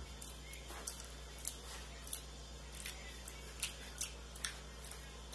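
Faint chewing of a soft mouthful of banana with ketchup and mayonnaise: about a dozen irregular, wet clicks and smacks of the mouth, over a low steady hum.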